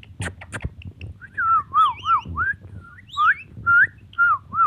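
Ringneck parrot whistling a string of about eight short, clear notes, each sliding up or down in pitch, after a few sharp clicks at the start.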